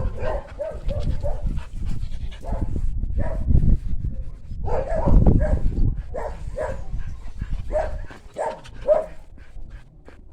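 A dog giving short, repeated whining barks and yips in quick clusters.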